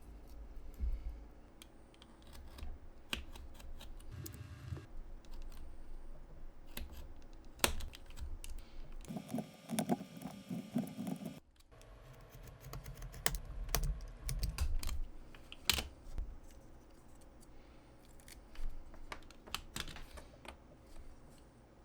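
Irregular small clicks and taps from hands handling small craft pieces, with a longer stretch of rustling and scraping about nine seconds in that stops suddenly.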